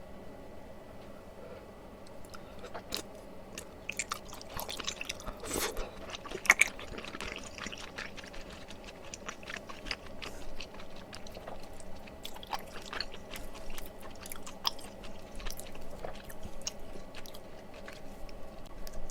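A person chewing and eating mala tteokbokki close to the microphone: irregular wet mouth clicks and smacks, with one sharper click about six and a half seconds in.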